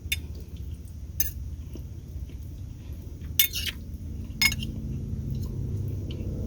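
Metal utensil clinking against a dish during eating, four sharp clinks about a second apart, one of them doubled, over a steady low rumble.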